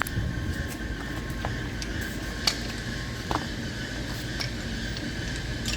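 A steady low machine hum with a thin, steady whine and a few light clicks.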